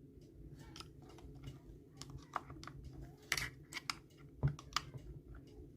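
Light, irregular clicks and taps of small metal gearbox parts, pinions and washers, being handled and lifted out of an NSU Quickly two-speed moped engine's gearbox.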